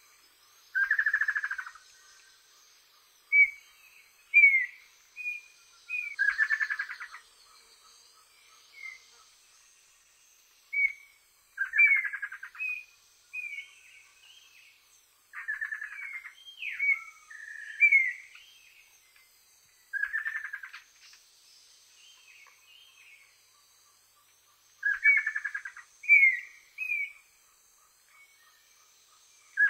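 Birds calling again and again: short rising chirps and buzzy, rapidly pulsed notes about a second long, coming every second or two, over a faint steady high tone.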